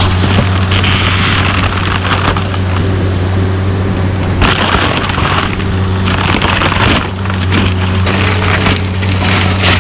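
Heavy machine's diesel engine running steadily while a train car is torn apart, with repeated bursts of crushing, cracking and splintering wood over the engine hum.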